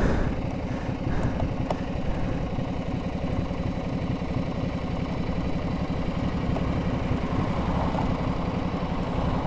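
Ducati Multistrada 1200 S's 1198 cc L-twin engine running steadily at low revs with an even pulsing beat. There is a short knock right at the start.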